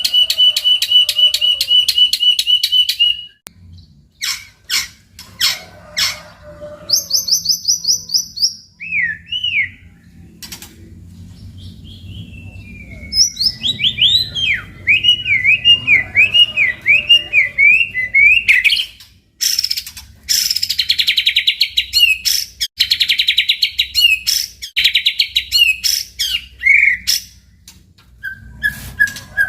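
White-rumped shama (murai batu) singing a varied song. It opens with a fast trill, then gives sharp clicks, whistled slurred notes that dip and rise, and dense rapid rattling phrases in the second half. A faint low hum runs underneath.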